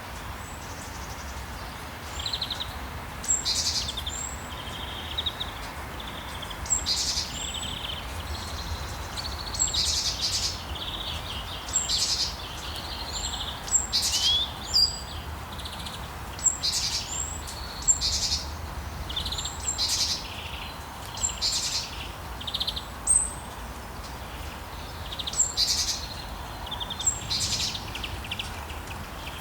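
Songbirds chirping and trilling repeatedly, with short high calls every second or two, over the steady hiss of falling rain.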